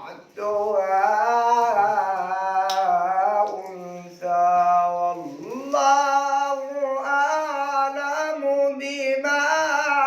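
A man chanting a Quran verse in the melodic tajwid style: long, held, ornamented notes that bend slowly in pitch, with short breaks for breath about half a second in and around four seconds.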